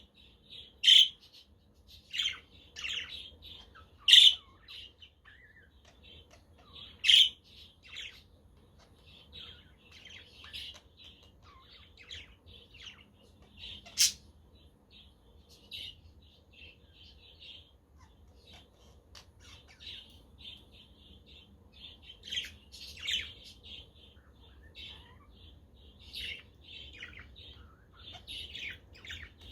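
Budgerigars chirping and warbling in continuous chatter, with louder sharp calls every few seconds, most of them in the first half.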